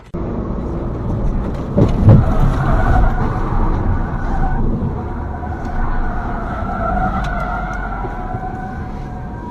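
Road vehicle noise: a steady low rumble with a wavering high tone over it, and a loud knock about two seconds in.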